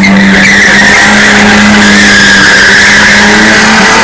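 Motorcycle burnout: the engine is held at high revs at a steady pitch while the spinning rear tyre squeals continuously against the pavement, very loud. The engine pitch dips briefly near the end.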